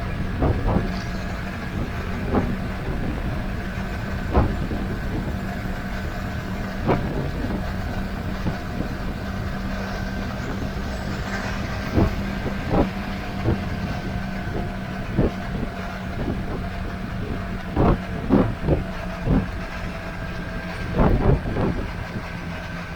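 Motorcycle engine running at steady revs under road and wind noise, with irregular sharp taps or knocks every second or two.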